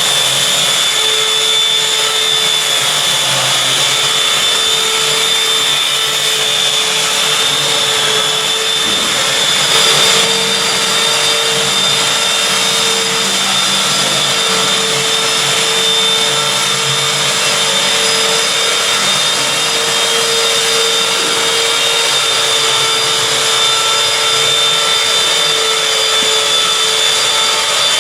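Motor-driven workshop machine running steadily with a constant whine, briefly louder about ten seconds in.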